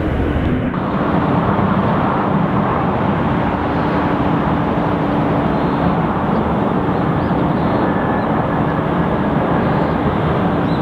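Jet airliner's engines running at high power: a loud, steady rushing noise with a faint steady hum underneath.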